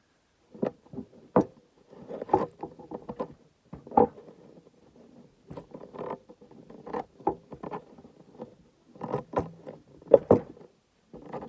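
Irregular knocks, clunks and short scrapes from a kukri blade being handled during hand sanding, in uneven clusters.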